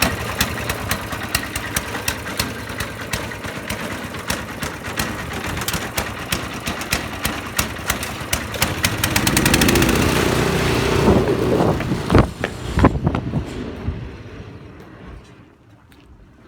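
Snowblower's small engine running rough and misfiring, with a rapid, uneven string of pops and bangs. It gets louder for a couple of seconds, gives two loud bangs, then winds down and stops.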